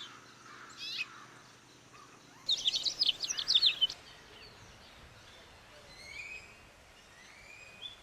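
Songbird singing: a loud, fast run of short down-slurred high notes lasting about a second and a half, starting about two and a half seconds in, with fainter chirps before and after.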